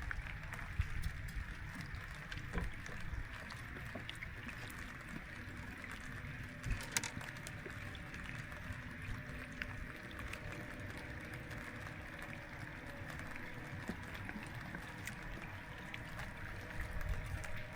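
Steady sound of water moving and splashing, with scattered small knocks.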